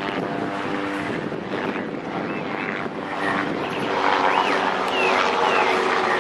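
Train motor or engine drone with several steady tones, growing louder about four seconds in, with birds chirping over it.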